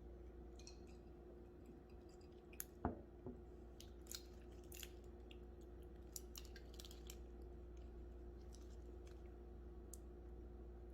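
Faint scattered clicks and small crackles, with one sharper knock about three seconds in, over a steady low hum.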